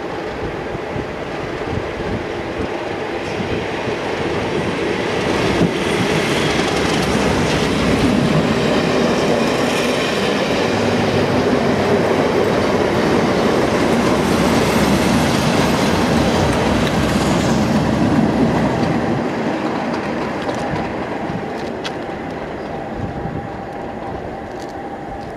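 A Class 37 diesel-hauled Network Rail test train passing close by: a rush of wheel and rail noise with clattering over the rail joints. It builds over the first few seconds, holds, then fades as the train draws away.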